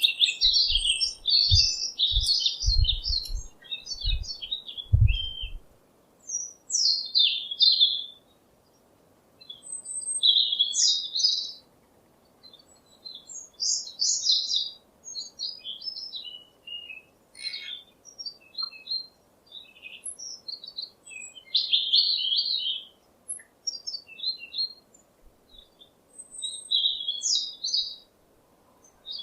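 Small birds chirping and twittering in short, quick phrases, with brief pauses between them. A few low thumps come in the first few seconds.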